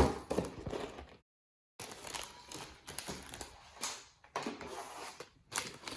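Cardboard Lego set box being opened by hand: a sharp click, then scratchy rustling and clicking of cardboard and plastic bags. The sound drops out completely for about half a second about a second in.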